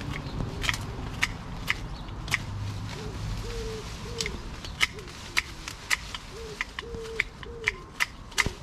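Hand pruners snipping through shrub stems: sharp clicks at uneven intervals, about two a second at times. A pigeon coos in repeated short phrases through the middle and later part.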